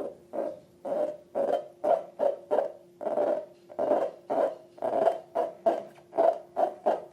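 Slime being squeezed and kneaded by hand, giving a run of squelches at about two to three a second.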